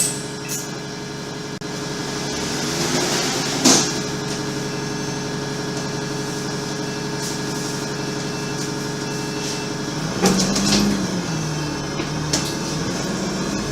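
Alexander Dennis Enviro500 MMC double-deck bus idling steadily, with faint short warning beeps. The door gear works with a hiss of air that rises to a loud release about four seconds in. A cluster of knocks and a wavering tone come near the ten-second mark.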